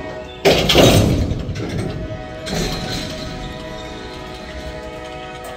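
Freight train boxcars rolling slowly past: a loud clank and rattle of wheels and couplers about half a second in, and a smaller one a couple of seconds later, over a steady set of high tones.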